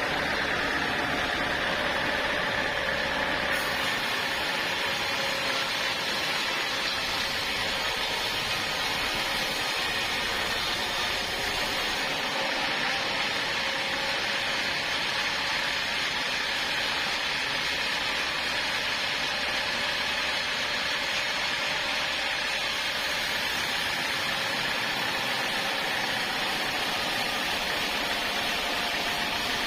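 Sawmill machinery running steadily: an even mechanical hiss with faint held tones, unchanging throughout.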